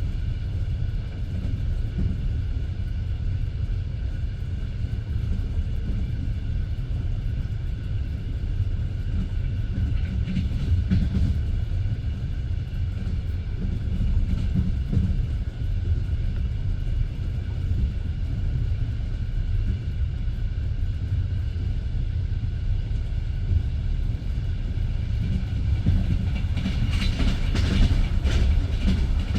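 Wheels of a passenger train carriage running along the rails: a steady low rumble with the clickety-clack of the wheels over rail joints, sharper and louder near the end.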